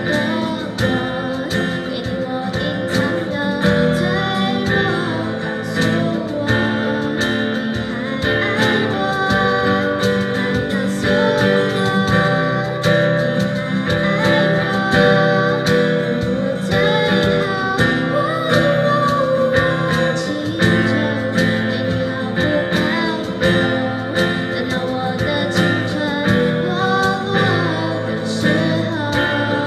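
Live music: acoustic guitars strumming and picking steadily, with singing.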